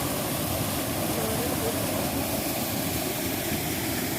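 Steady rushing of water from a small waterfall running low.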